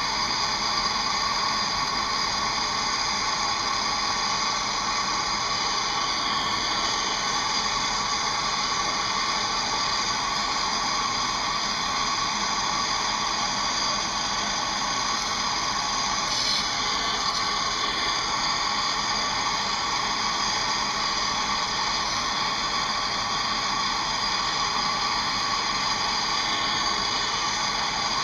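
MAP gas torch burning with a steady hiss, its flame heating a seized brake caliper bolt.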